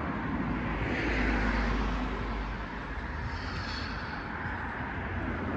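A car driving along a road: steady low rumble and tyre hiss, swelling a little about a second in.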